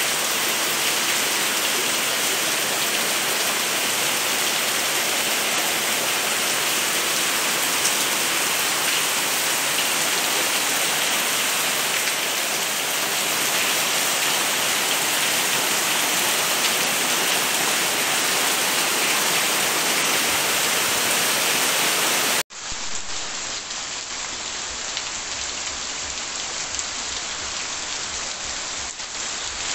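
Heavy rain falling steadily. About three-quarters of the way through it cuts abruptly to quieter rain, with separate drops heard as light ticks.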